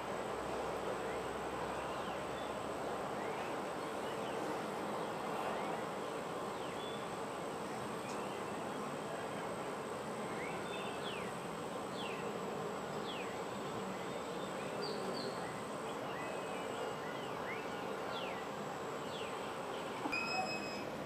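Steady insect drone with a thin, high, steady whine above it, and birds calling in short falling whistles scattered throughout; one louder, clearer bird note comes near the end.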